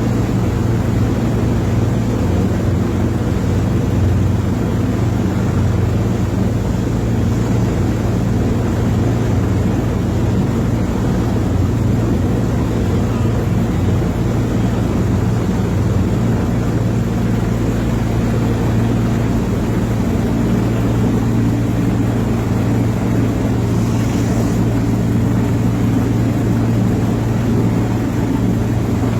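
Rescue helicopter hovering: a steady, loud drone of rotor and engine that does not change.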